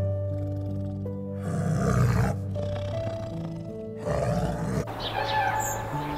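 Calm background music with a tiger growling over it in two rough bursts, about one and a half seconds in and again about four seconds in; short bird chirps come in near the end.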